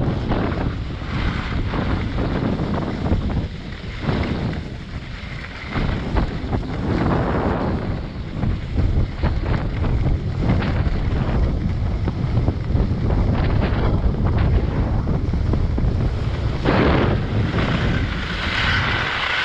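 Wind buffeting the microphone of a moving skier, mixed with the hiss of skis sliding over snow that swells and fades every few seconds.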